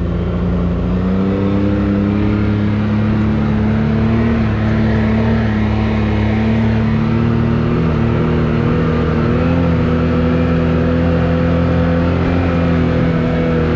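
Can-Am Maverick X3 side-by-side's turbocharged three-cylinder engine running steadily while driving a trail. Its pitch climbs a little in the first couple of seconds, then holds.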